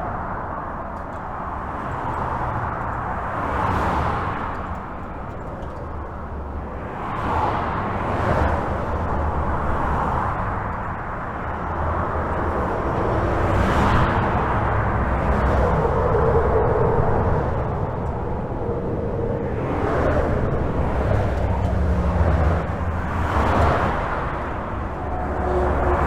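Highway traffic heard from under a bridge: a continuous rush of tyres and engines over a low rumble, swelling as single vehicles pass every few seconds.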